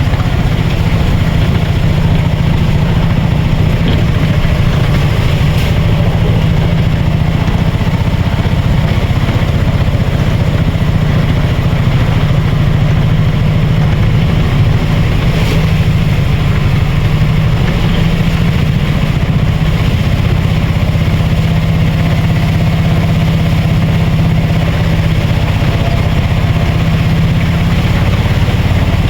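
A vehicle engine running steadily at a low, even pitch, unchanging throughout.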